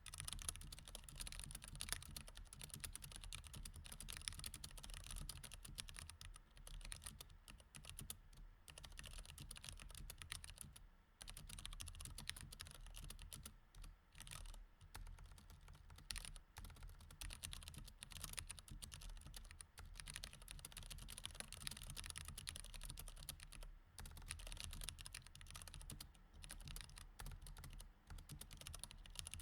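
Typing on a mechanical keyboard with Cherry MX Red switches: a fast, continuous run of keystroke clicks, with short pauses about eleven and twenty-four seconds in.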